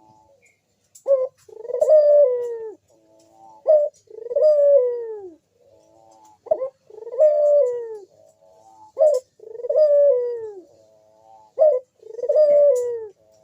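A crossbred puter (Barbary dove) calling over and over: each phrase is a short clipped note followed by a long coo that slides down in pitch, repeated about five times at an even pace.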